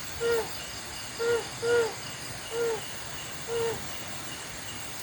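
An owl hooting: five short single hoots, roughly one a second, each a brief note with a slight rise and fall. Behind it runs a steady high insect chorus.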